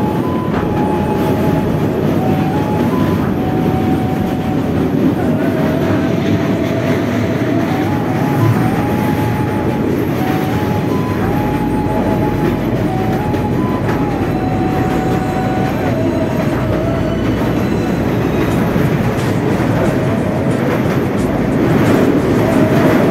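Passenger train running over a steel truss bridge: a steady, loud rumble of wheels on the rails and air rushing past an open carriage door.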